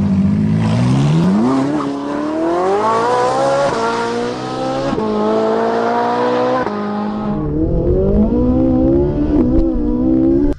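Vehicle engine accelerating hard, its pitch climbing steadily and then falling back sharply several times, as in gear changes. It turns rougher and lower late on and cuts off suddenly at the end.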